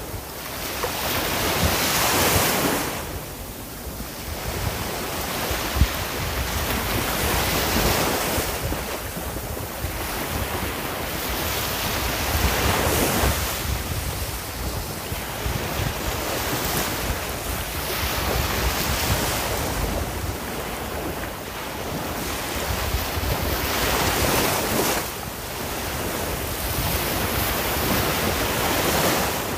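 Sea waves surging and washing onto a shore, the rushing noise swelling and falling away every few seconds.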